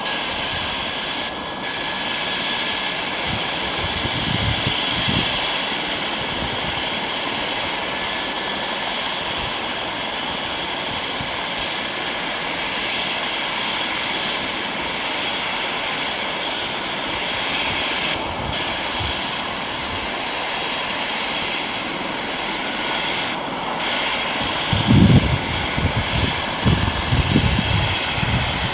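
Medical helicopter's turbine engines and rotor running steadily, with a high whine over a broad rushing noise. Low, uneven buffeting comes in near the end.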